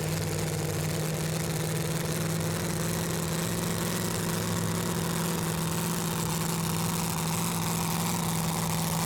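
Large engine idling steadily at a constant pitch, with no revving.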